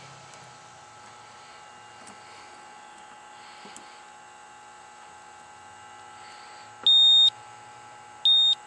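Two short, high electronic beeps about a second and a half apart, the second a little shorter, over a steady low hum with several constant tones.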